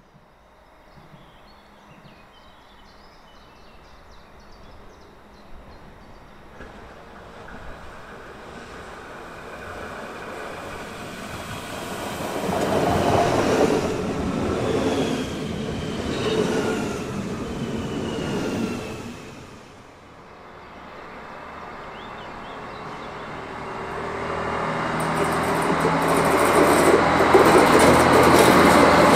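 A passenger train approaches and passes close by, building to its loudest pass about halfway, with falling whining tones over the rumble of its wheels. After a break, a Stadler Regio-Shuttle diesel railcar runs past with its engine hum, growing louder toward the end.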